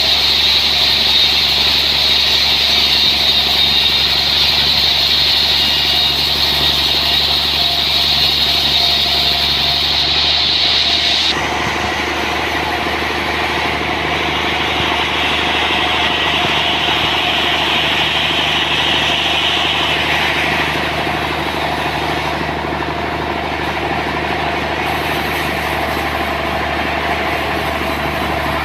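Sawmill running steadily, a loud machine drone with a high edge. About eleven seconds in the sound changes suddenly, becoming lower and a little quieter.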